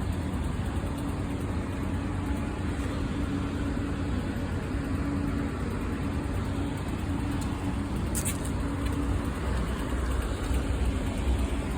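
Large outdoor HVAC unit running: a steady mechanical hum and rumble with a low tone that wavers and drops away about nine seconds in. A brief tick comes about eight seconds in.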